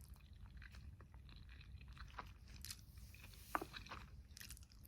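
Faint chewing of a mouthful of spaghetti: soft, irregular wet clicks and smacks of the mouth, one slightly louder about three and a half seconds in.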